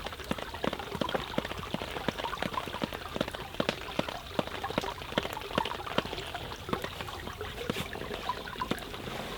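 Rain falling, with many irregular drop taps over a steady wash of running water.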